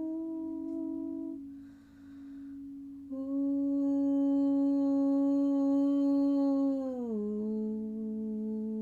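A voice humming long, steady toning notes: one note held and stopping about a second in, a soft breath, then a new note that slides down about seven seconds in and holds at the lower pitch.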